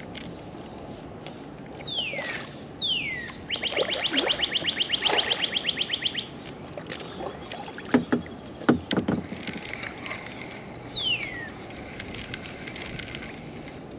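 Birds calling: a few quick falling whistles and a fast trill of about ten notes a second, over a steady low rush. A few sharp knocks about eight to nine seconds in are the loudest sounds.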